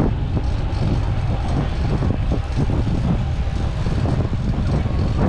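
Steady rumble of wind on the microphone mixed with street traffic noise.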